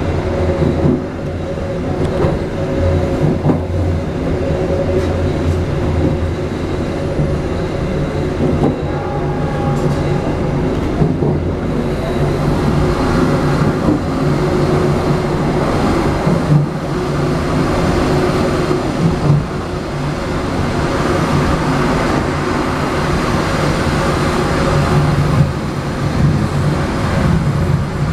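Passenger train running along the track, heard from inside the rear carriage: a steady rumble of wheels on rails with a few sharp clicks.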